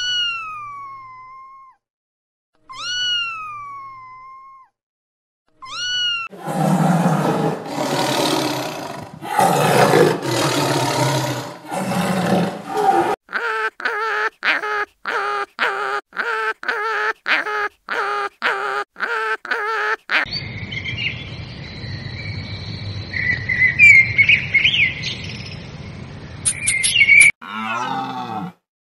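A run of different animal calls one after another: three short cries that rise and fall in pitch, then several seconds of rough, noisy calling, then a fast series of short pitched calls at about two a second, then high chirping over a steady low rumble.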